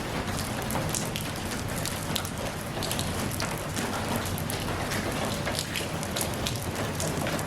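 Steady rain, with many separate drops ticking irregularly on a hard surface over the even hiss of the downpour.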